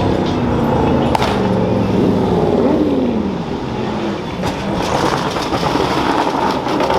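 Car engine and exhaust running, with the pitch sliding up and down a couple of seconds in, and a sharp click about a second in.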